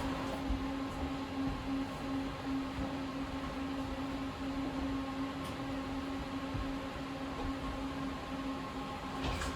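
Steady electric hum of a tram, a few fixed tones over an even rushing noise, with a short knock near the end.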